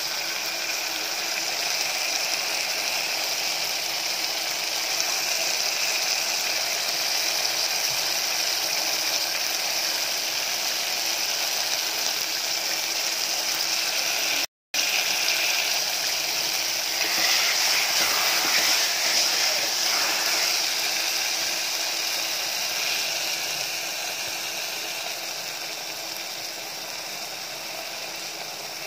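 Mutton pieces sizzling in hot oil with sautéed onion, tomato and ginger-garlic paste in a pressure cooker: a steady hiss. It breaks off for an instant about halfway, swells a little a few seconds later, then slowly fades.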